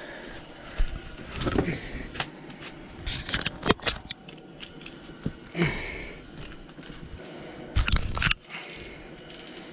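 Irregular handling noises: knocks, scrapes and rattles close to the microphone, with a cluster of sharp clicks a little over three seconds in and a louder scraping burst about eight seconds in.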